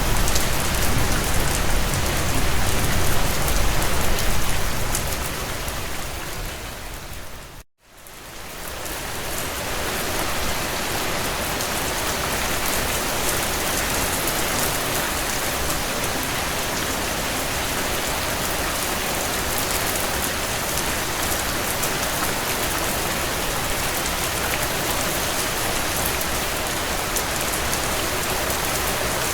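Heavy rain falling on a tin roof, a dense steady patter. About five seconds in it fades down to a moment of silence and then fades back up; before the dip there is more low rumble under the rain.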